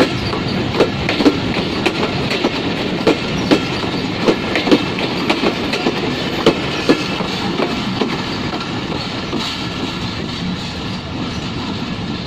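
Passenger train coaches rolling past close by, the wheels clacking over rail joints and junction points in a quick, uneven rhythm over a steady rumble. The clacks thin out after about seven seconds and the sound eases as the last coach moves away.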